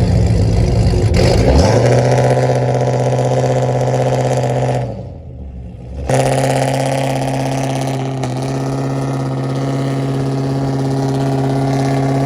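A car engine held at steady raised revs: it climbs and holds for about three seconds, drops away, then comes back and holds for about six seconds more.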